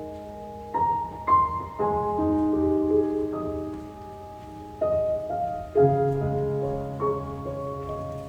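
Background piano music: slow, sustained notes and chords struck every second or so.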